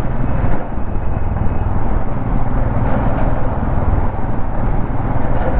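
Royal Enfield Himalayan 411's single-cylinder engine running at a steady highway cruise, mixed with steady wind rushing over the camera microphone.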